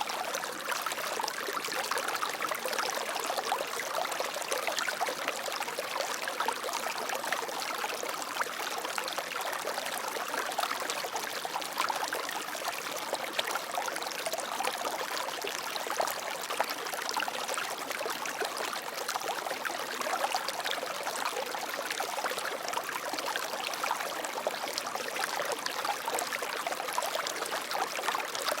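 Water flowing and splashing steadily, a dense patter of small splashes with little deep rumble.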